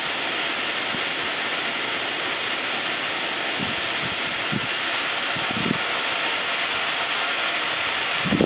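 Liquid-propellant rocket engine on a test stand giving a steady, even hissing rush of gas flow, cutting off sharply near the end.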